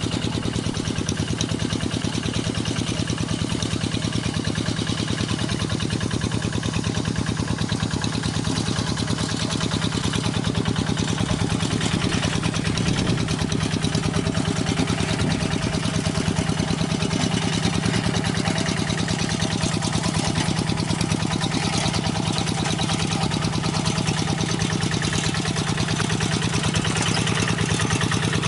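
Single-cylinder diesel engine of a two-wheel rice-field hand tractor running steadily at idle, with an even, rapid chugging beat.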